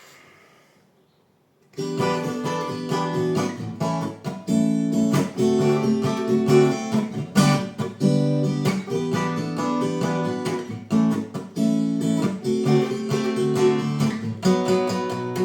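Acoustic guitar strummed in a steady rhythm, starting about two seconds in: the instrumental intro of a song, before any singing.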